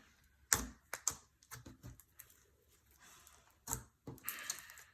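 Clear slime clicking and popping as it is squeezed and poked by hand: irregular sharp clicks, the loudest about half a second in and again near the end.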